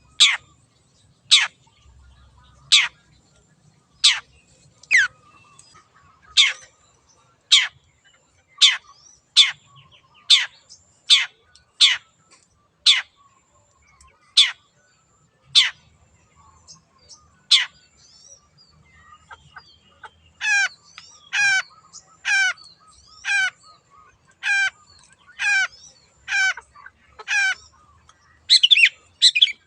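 Long-tailed shrike (cendet) singing: a series of sharp downward-sweeping whistles about once a second. After a short pause comes a run of wavering, warbled notes at the same pace, and a rapid burst of notes near the end.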